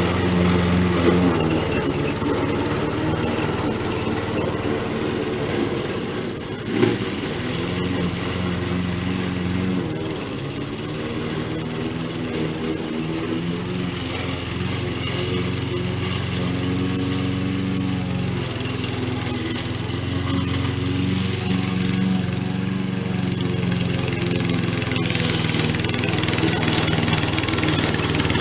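Gasoline lawn mower engine running steadily while cutting grass, its pitch sagging and recovering slightly as the load changes. A single short knock about seven seconds in.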